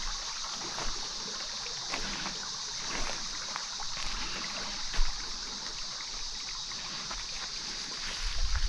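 Footsteps on a forest trail, about one a second, over a steady high-pitched hiss of outdoor ambience, with a soft thump about five seconds in.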